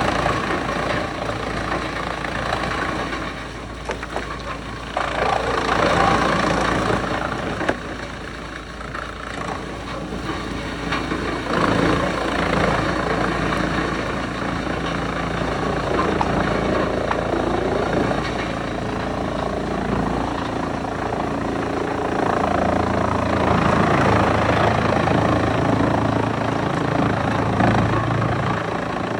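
Wood chipper running steadily, with the machine's sound changing about twenty seconds in as a different steady engine tone takes over.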